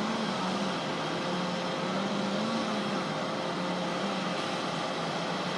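Steady low mechanical hum, its pitch wavering slowly up and down, with a fainter higher steady whine.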